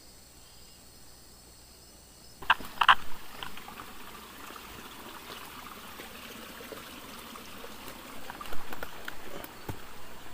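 Rainforest ambience: a faint, steady, high insect drone, then an abrupt change about two and a half seconds in to louder water sounds, with a couple of sharp knocks at the change and scattered clicks after.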